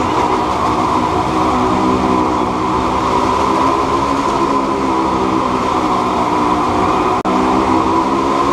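Motorcycle engine running at a steady, high pitch as the bike circles the Wall of Death. The sound cuts out for an instant about seven seconds in.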